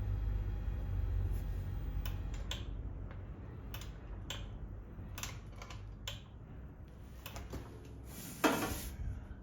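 Hand-cranked bead roller being wound along thick steel sheet, pressing a bead into it: a low rumble with irregular metallic clicks and clinks, and a louder clatter of metal near the end.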